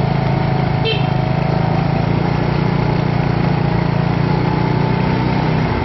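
Small motorcycle engine running at a steady cruise, a low even hum under a constant hiss of riding noise.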